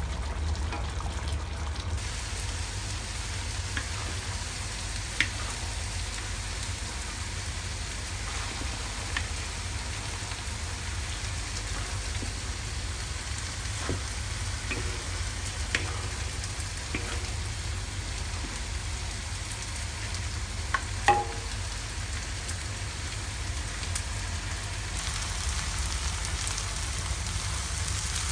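Food sizzling and frying in a pan, with a few sharp clinks of a utensil against the pan, the loudest about three-quarters of the way through.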